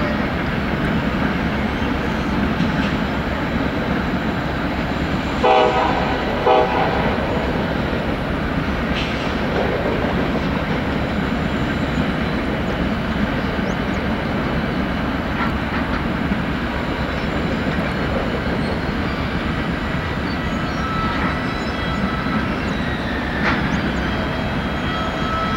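Freight train running past with a steady rumble of wheels on rail. A locomotive horn gives two short toots about a second apart, around six seconds in.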